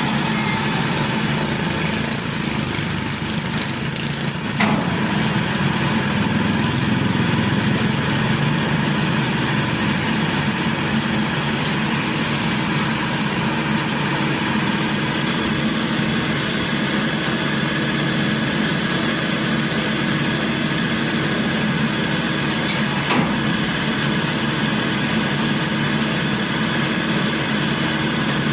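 Maxxi Bimo Evo Xtreme combine harvester's engine running steadily. A sharp knock comes about four and a half seconds in, and the engine gets a little louder after it; another knock comes later.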